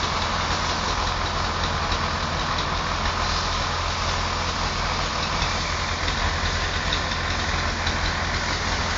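Engine of heavy road-repair machinery laying asphalt, running steadily at a constant level, with a steady hiss over it.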